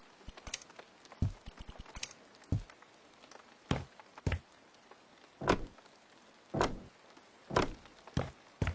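A series of knocks and thuds, about one a second at an uneven pace, some doubled close together.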